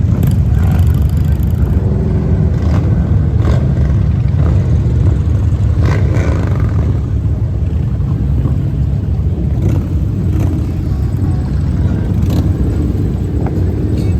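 Motorcycle engines running in a steady, continuous low drone, with a few brief sharper sounds over it.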